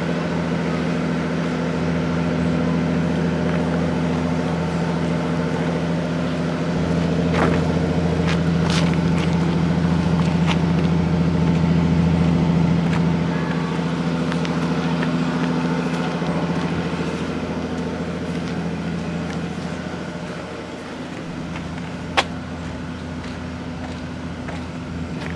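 Seagrave rescue-pumper fire engine's diesel engine idling steadily, swelling a little in the middle and easing off later. A few sharp clicks, the loudest about three-quarters through.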